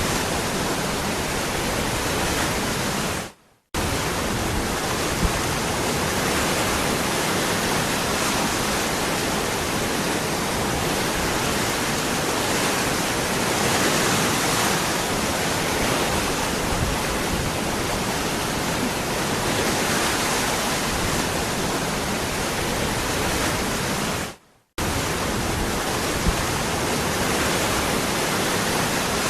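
Waterfall rushing in a steady, even roar of falling water, cutting out to silence for a split second twice, about three seconds in and again near the end.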